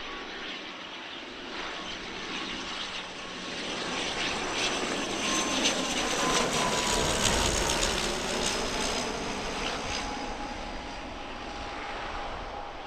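An airliner's engines passing close by. The noise builds to a peak about halfway through and then fades, with a thin engine whine that slides down in pitch as the aircraft goes by.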